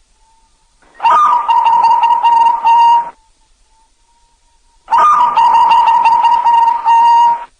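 Zebra dove (perkutut) singing its cooing song: two phrases of about two seconds each, with a pause between them.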